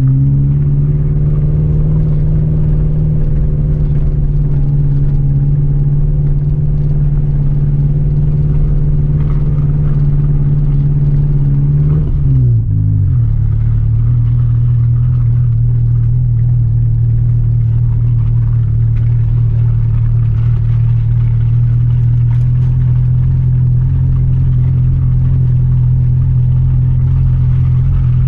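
Suzuki Jimny's engine droning at steady revs, heard from inside the cabin while driving a rough track. About twelve seconds in, the engine note drops as the revs fall, then holds steady at the lower pitch.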